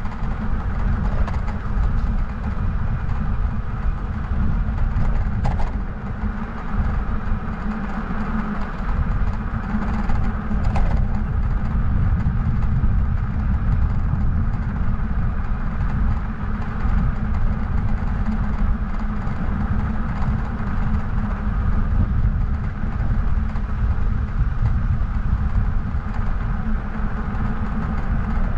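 Steady wind rumble on the microphone and rolling noise from a bike in motion, with no pause or break.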